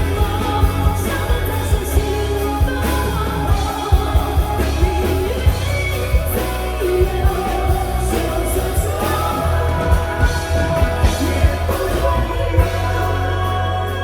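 Live pop-rock band playing with singing: a steady drum beat, heavy bass and a gliding melody line.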